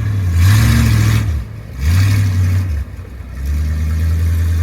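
Mini S10 monster truck's engine running and revved twice in quick bursts, dropping off briefly after each before settling back to a steady run.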